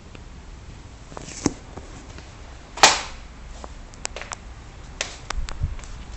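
A series of sharp, separate knocks and clicks at uneven intervals, the loudest about three seconds in, with a cluster of lighter taps after it.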